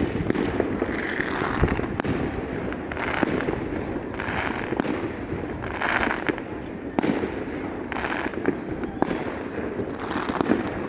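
Fireworks going off in a continuous barrage: sharp bangs mixed with crackling bursts that come about once a second, with no letup.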